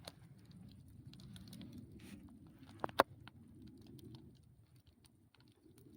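Campfire crackling: scattered sharp pops over a low, steady rush, with two loud pops close together about three seconds in.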